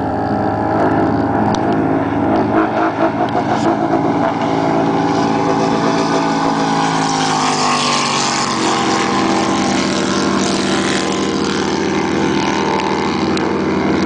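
Big-block V8 engine of a performance speedboat running hard at racing speed, with the rush of wind and water around the hull. The engine note flutters unevenly a couple of seconds in, then settles.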